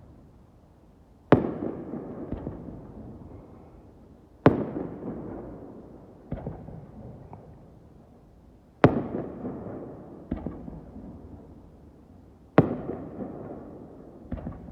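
Fireworks shells bursting in the sky: four loud bangs a few seconds apart, each trailing off in a long fading echo, with a smaller, quieter bang after each one.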